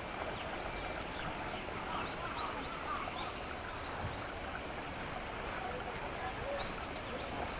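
Small birds chirping, short high calls scattered every second or so, over a steady outdoor hiss.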